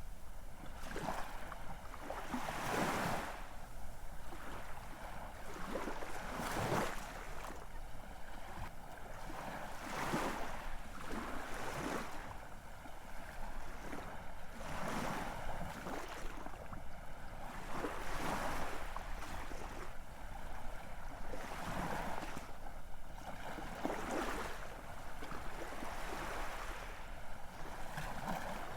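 Ocean waves washing in continuously, a swell of surf hiss every couple of seconds.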